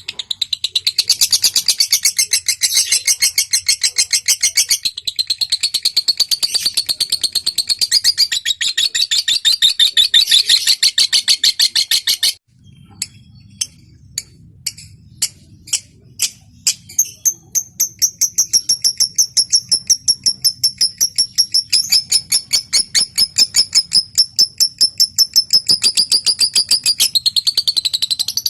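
Lovebird chattering in very rapid high-pitched trills. About twelve seconds in it breaks off, then starts again with separate ticking notes that speed up ('ngetik') and run into a long, fast chattering trill ('ngekek').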